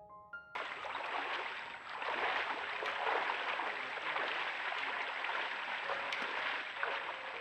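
Stream water running steadily, with a thin, steady high tone above it. A few rising musical notes come just before the water starts, and faint music returns near the end.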